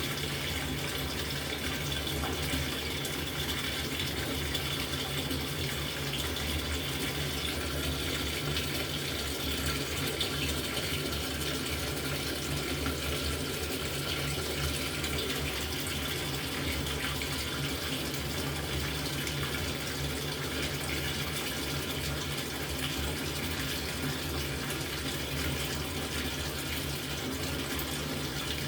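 LG top-loading washing machine filling its tub: a steady, unbroken rush of incoming water with a low hum under it.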